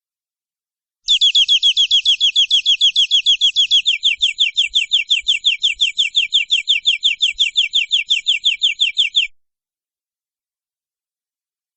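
A domestic canary sings one long trill of rapidly repeated notes, about seven a second. About three seconds into the trill the note changes to a slightly lower one, and the trill then stops abruptly.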